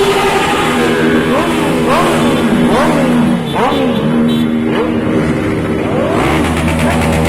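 Motorcycle engines running and revving, with several overlapping rising and falling whines over a steady engine drone.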